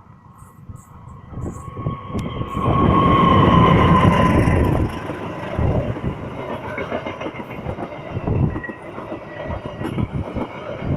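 Train passing close by: it builds up quickly with a steady high whine and is loudest a few seconds in, then the wagons roll past with an uneven rumble and wheel clatter on the rails.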